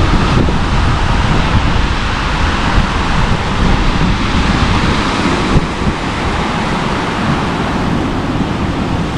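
Wind buffeting the microphone in a steady low rumble, over the wash of surf breaking in the harbour.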